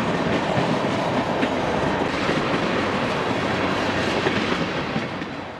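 Railroad cars rolling along the track, wheels clacking over the rails; the sound fades away near the end.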